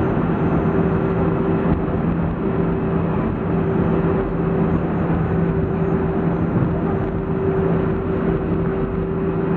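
Cabin noise inside a Boeing 737-400 taxiing after landing: a steady rumble and hiss from its CFM56-3 engines at idle and the airflow, with a steady low hum underneath.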